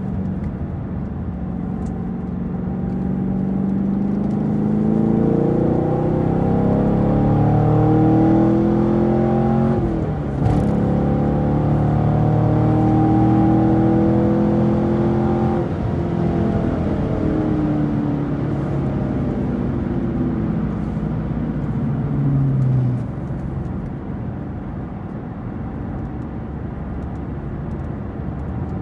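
2018 Camaro SS 1LE's 6.2-litre V8 accelerating under load: the engine note climbs, breaks sharply at a gear change about ten seconds in, climbs again, then falls away from about fifteen seconds in as the throttle comes off, dropping further near twenty-three seconds.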